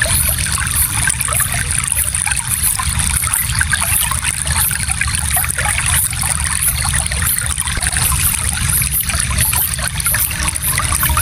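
A gentle stream flowing and trickling steadily, with constant fine splashing.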